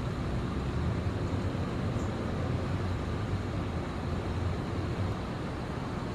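Steady low rumble of distant city traffic, with a faint short high chirp about two seconds in.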